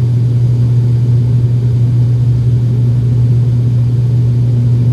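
Steady low drone of a small airliner's engines heard inside the passenger cabin, with a strong deep hum that holds an even pitch.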